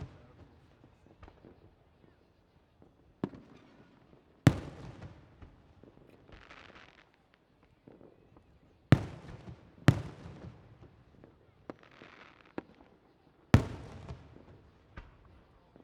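Aerial fireworks bursting: four loud booms and several smaller bangs at uneven intervals, each trailing off in a rolling echo.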